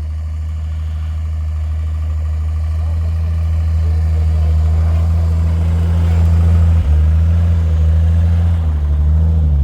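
Off-road SUV engine running steadily under load, with a low hum that grows gradually louder. The pitch drops slightly about seven seconds in.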